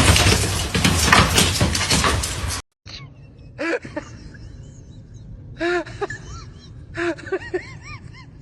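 A loud rushing noise that cuts off suddenly, then a few short, high calls from a small pet, each rising and falling in pitch.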